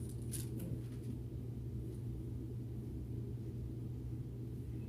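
Steady low hum of room tone, with a faint brief rustle about half a second in.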